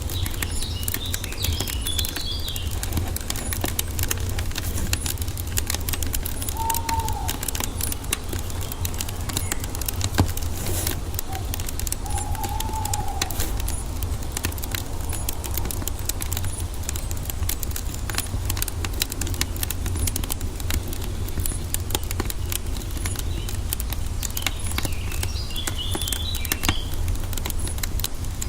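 Wood fire crackling with frequent small pops and one louder snap about ten seconds in, over a steady low rumble. Birds chirp twice, briefly near the start and again near the end, with two short lower calls in between.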